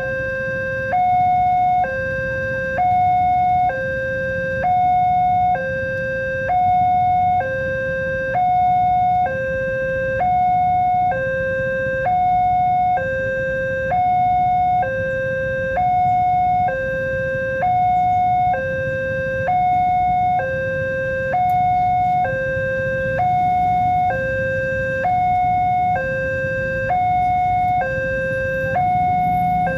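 Level-crossing warning alarm sounding a steady two-tone signal, a lower and a higher tone alternating about once a second, warning that a train is approaching. Beneath it runs a low steady rumble.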